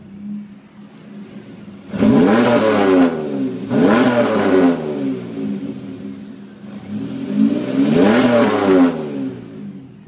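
2002 Chevrolet Camaro 3.8-litre V6 idling and free-revved three times through its dual exhaust. There is a short rev about two seconds in, another near four seconds, and a longer rev near the end that climbs and falls back to idle.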